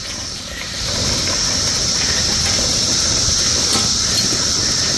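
Vevor lawn sweeper's spinning brushes and wheels rolling over a lawn littered with dead cicadas, a steady rushing rattle that gets louder about a second in. A steady high-pitched cicada chorus drones throughout.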